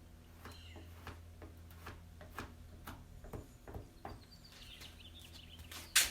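Spreader scraping and tapping as short-strand fiberglass filler is spread over a steel truck door skin: a string of short scrapes and clicks over a steady low hum, a squeaky run about four seconds in, and a sharp knock near the end.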